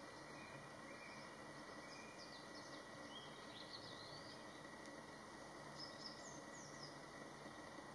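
Quiet outdoor ambience: faint bird calls, a few short high chirps and sweeping whistles around the middle and again later, over a steady low hiss.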